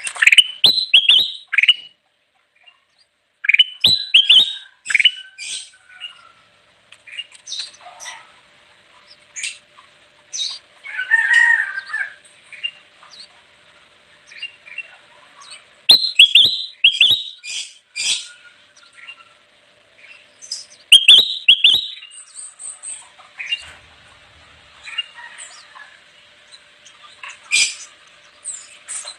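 Kutilang emas bulbul singing: loud bursts of quick, rising whistled notes in short clusters every few seconds, with scattered single chirps between.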